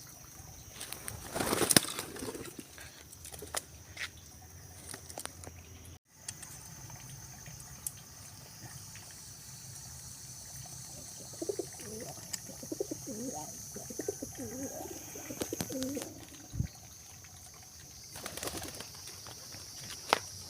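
Domestic pigeons cooing, in low bending calls about halfway through, with a loud burst of wing flapping about a second in.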